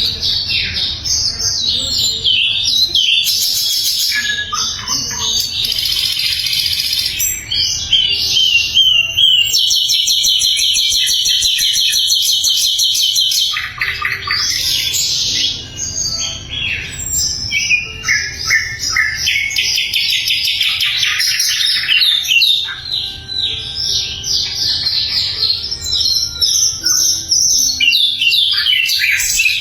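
Sikatan londo flycatcher singing loudly and continuously: fast, varied high chirps, trills and rapid repeated-note runs, with brief breaks now and then.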